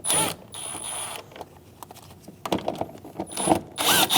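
Cordless power driver running in short bursts to back out 7mm screws, with a high whine. The first run comes right at the start, the second lasts about half a second and ends just over a second in, and near the end the motor's pitch falls as it winds down. Light clicks come in between.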